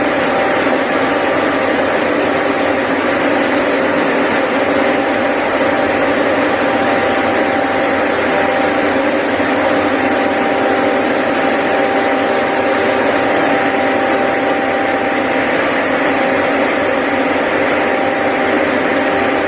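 Xpro 9000 engine-driven airless paint sprayer with a 9-horsepower engine, running steadily. It makes a constant mechanical noise with a steady whine over it.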